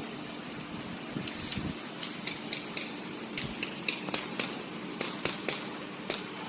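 CO2 laser cutting and engraving machine running: a steady hum under a run of sharp, irregular ticks that start about a second in and stop near the end.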